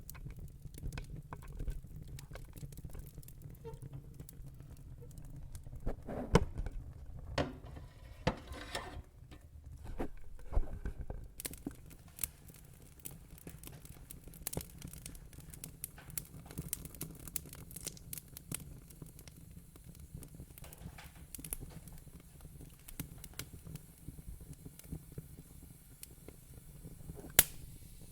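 Fire crackling: irregular sharp pops and snaps over a low steady rumble, with louder pops about six seconds in and again near the end.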